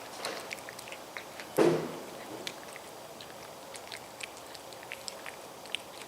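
A cat eating, with many small scattered clicks of chewing. A single louder short scuff or thump comes about a second and a half in.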